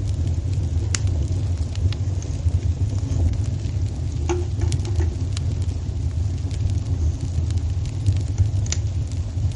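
Fireplace fire crackling: a steady low rumble of the flames with scattered sharp pops and crackles, a few louder snaps about a second in, near the middle and near the end.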